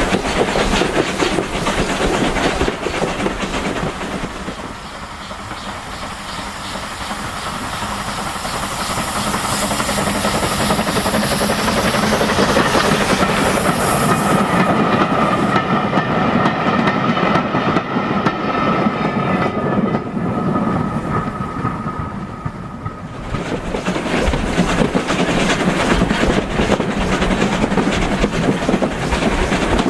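Steam-hauled heritage railway carriage running along the line, its wheels clicking rhythmically over the rail joints. From a little before halfway to about three-quarters through, the hiss thins out and the sound goes duller, with a faint held tone, before the full running sound returns.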